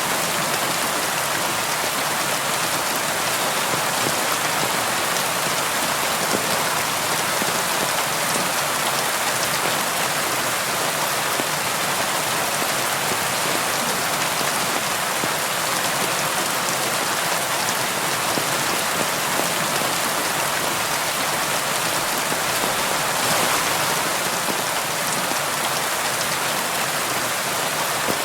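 Steady rain falling on a window: an even hiss of countless drops that swells slightly about 23 seconds in.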